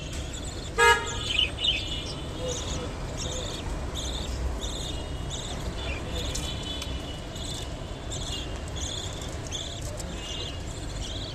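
Budgerigars calling: one loud harsh squawk about a second in, then a long run of short high chirps, about two a second.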